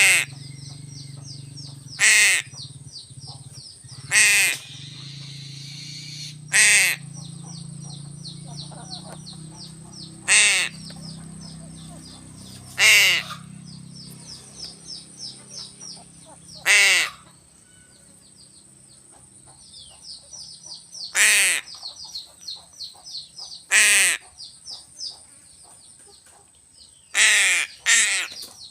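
A crow cawing repeatedly, about eleven short, loud, harsh caws spaced a few seconds apart, the last two close together. Underneath runs a steady high-pitched whine with fast, faint chirping, and a low hum that dies away about halfway through.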